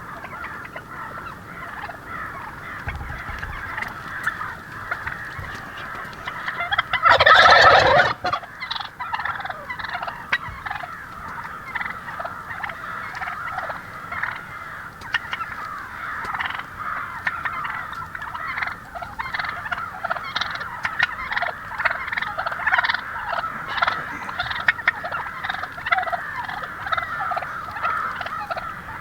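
Wild turkeys gobbling again and again in a dense run of calls, with one much louder gobble about seven seconds in.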